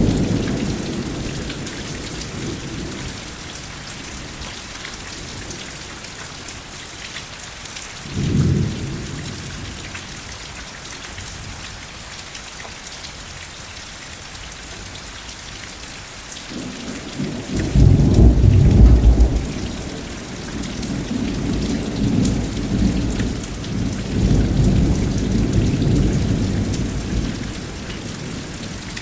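Steady rain falling, with thunder rumbling several times: a rumble fading at the start, a short clap about eight seconds in, the loudest peal about two-thirds of the way through, and a longer rolling rumble after it.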